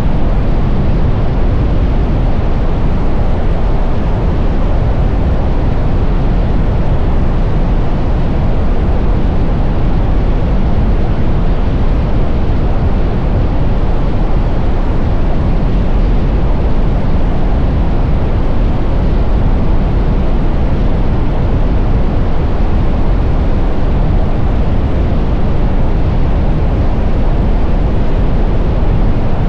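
Steady wind rush and buffeting on a camera microphone on a moving motorcycle, loud and even throughout, heaviest in the low end, with no engine note standing out.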